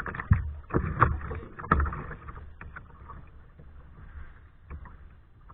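Kayak paddling: three sharp paddle splashes in the water about two-thirds of a second apart, then quieter water with a few light drips and knocks, over a steady low rumble.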